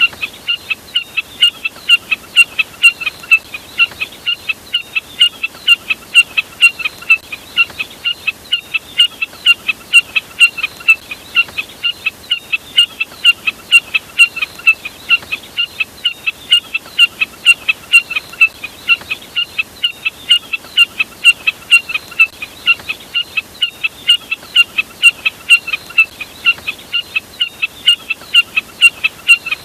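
Burcet bird call, labelled common jack snipe (Lymnocryptes minimus), played as a lure recording: a short high-pitched note repeated about three times a second, in phrases that swell and fade every few seconds.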